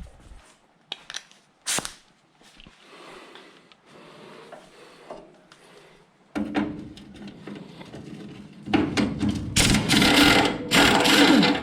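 A few sharp tool clicks and knocks, then a power tool starts about six seconds in and runs with a steady hum, growing much louder over the last few seconds as it works the metal.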